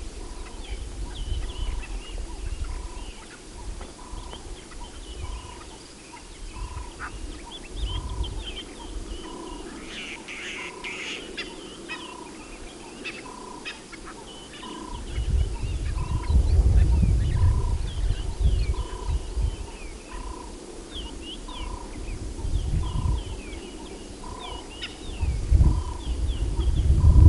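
Wild birds calling in the bush: one bird repeats a single clear note evenly about one and a half times a second throughout, over scattered short high chirps from other birds. Bursts of low rumble come in about halfway through and again near the end, louder than the calls.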